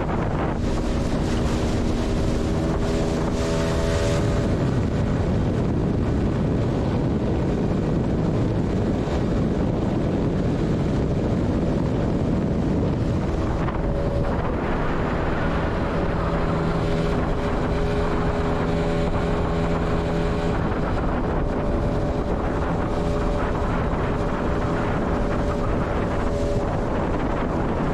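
Tarpon 9.9 hp outboard motor running steadily, driving an inflatable boat under way, with wind buffeting the microphone and water rushing past the hull.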